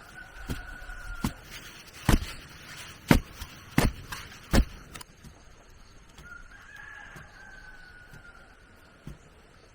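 A rooster crowing twice, once ending about a second in and again from about six seconds in. Between the crows come about six sharp knocks, the loudest near the middle.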